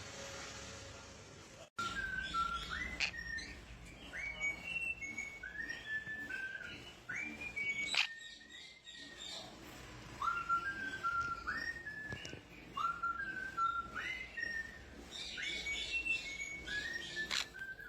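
A parrot whistling a tune: short phrases of clear notes, each sliding up into a held pitch, repeated again and again, with a few sharp clicks in between.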